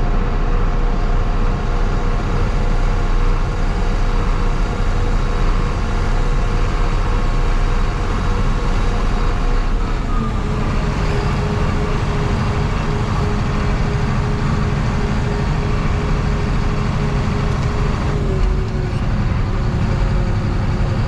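Engine of heavy harvest machinery running steadily under load, a continuous loud hum whose pitch steps down slightly about ten seconds in and again near the end.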